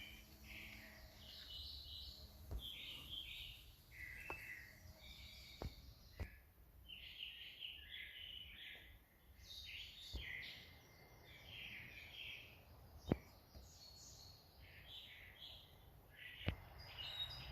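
Birds chirping, faint and continual, with a few sharp clicks scattered through, the loudest about 13 seconds in.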